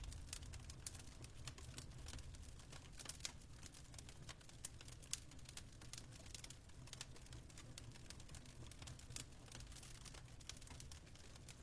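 Faint fireplace crackling: irregular sharp pops and snaps of burning wood over a low steady rumble.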